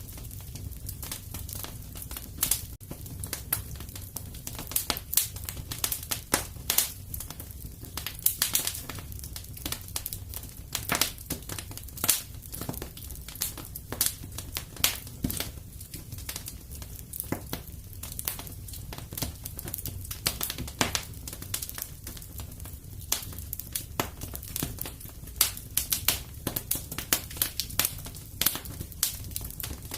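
Wood fire crackling in a fireplace: dense, irregular sharp pops and snaps over a steady low rumble of flames.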